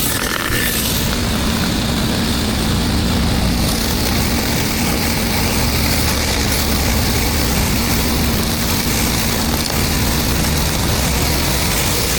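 Pressure-washing equipment running steadily: a constant engine drone under an even hiss of high-pressure water spray.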